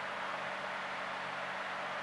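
Steady in-flight cabin noise of a light single-engine airplane: an even, hiss-like engine and airflow drone with a faint low hum underneath.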